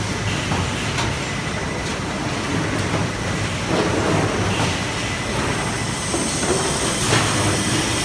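Automated resistance seam welding machine for fuel tanks running: a steady mechanical rumble and hum, with a few short knocks and louder swells near the middle and toward the end.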